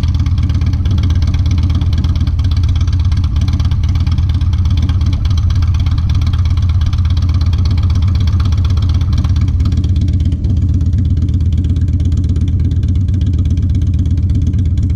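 Harley-Davidson Dyna Low Rider (FXDL) V-twin running steadily at idle through Two Brothers Racing (TBR) aftermarket exhaust pipes.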